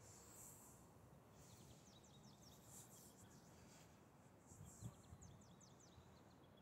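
Near silence: faint outdoor ambience with a small bird twittering twice in quick runs of high chirps, and a soft low thump about five seconds in.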